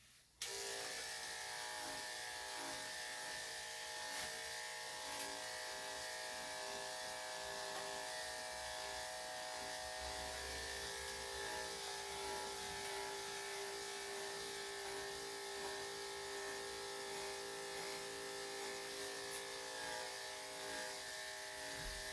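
Electric dog grooming clippers with a #3 3/4 blade switch on about half a second in and run with a steady buzz.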